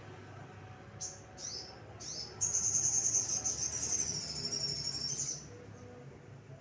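Small songbird (sogon) singing: three short, high chirps that sweep downward, then a loud, high, continuous warbling song lasting about three seconds that stops suddenly.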